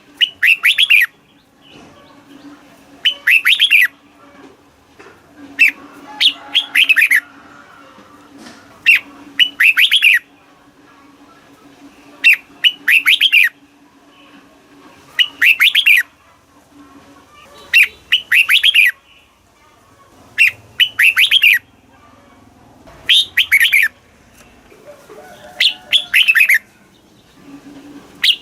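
Red-whiskered bulbul singing, repeating short phrases of quick falling notes about every two to three seconds, over a faint steady low hum.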